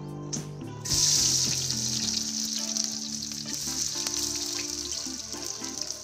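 Chopped onion hitting hot oil in an iron kadai: a loud sizzle breaks out about a second in, then keeps sizzling as the onion fries, slowly easing off.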